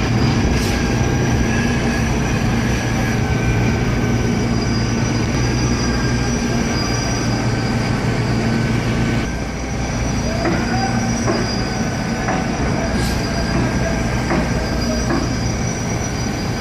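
Concrete pump truck running: a steady engine drone with high whining tones over it. It drops slightly about nine seconds in, and a few knocks follow.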